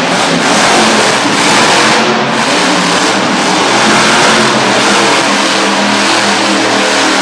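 Monster truck engine revving hard and running loud and steady while the truck spins donuts.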